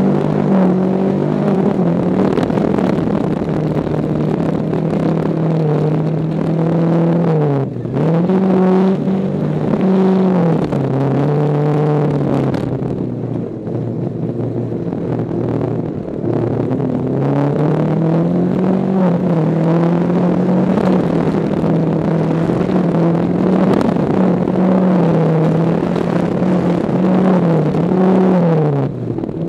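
VW Beetle's air-cooled flat-four engine heard from inside the cabin, running hard under racing load, its pitch climbing and falling with the throttle. The pitch drops sharply and climbs again about eight seconds in and again near the end, and the engine eases off for a few seconds around the middle.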